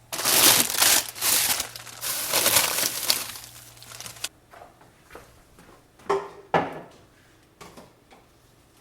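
Plastic packaging crinkling and crackling loudly as it is handled and crushed for about four seconds, then two sharp knocks.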